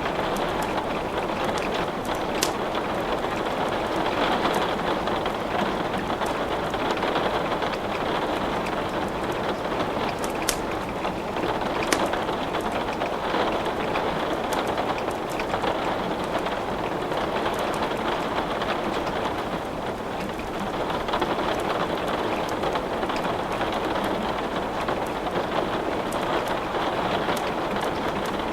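Steady rain hissing, with a few sharp pops of burning wood in a fireplace crackling over it.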